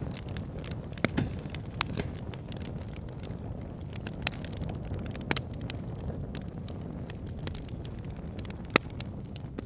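Wood fire in a fireplace burning steadily with a low rumble and irregular sharp crackles and pops, the loudest pops about a second in and near the end.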